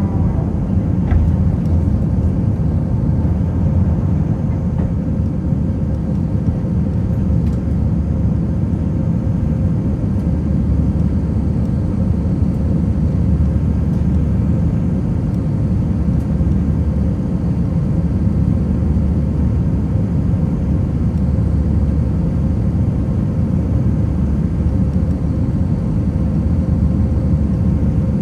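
Cabin noise of an Airbus A319 during takeoff and climb: a steady, loud, deep rumble from its IAE V2500 engines and the airflow, with a faint constant hum above it.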